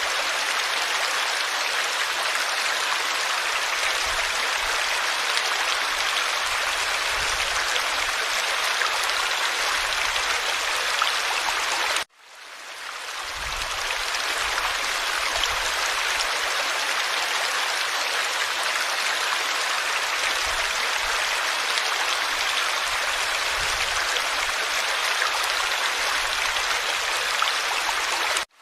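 Forest stream flowing steadily, a continuous babble of water running over rocks. About twelve seconds in the sound cuts out abruptly and fades back up over a second or so.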